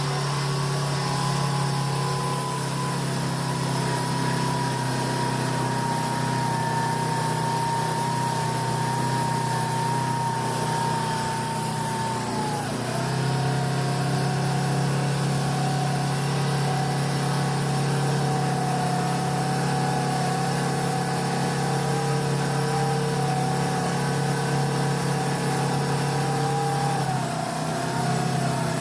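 Heavy truck engine running under load, its steady note dropping in pitch once about twelve seconds in and again near the end, as when the revs fall or a gear changes.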